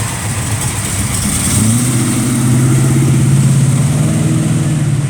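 Car engine running with a low, steady rumble; its revs rise a little about two seconds in and then hold.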